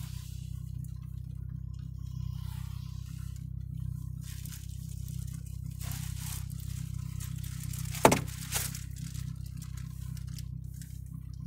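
Steady low rumble of a car driving, heard from inside the cabin, with intermittent hissing swooshes and a sharp knock about eight seconds in, followed half a second later by a smaller one.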